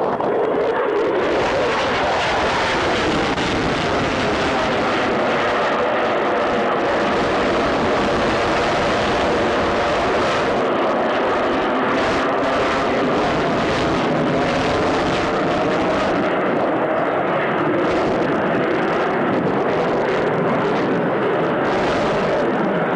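Fixed-wing aircraft flying a display pass, its engine noise loud and steady with a slowly shifting pitch.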